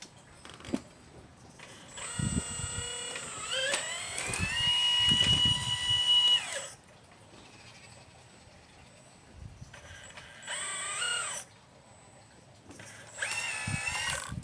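The motor drive of a 1/12-scale RC Liebherr 954 excavator model whining in three spells. In the first and longest, the whine rises in pitch, holds steady, then cuts off; two shorter spells follow later.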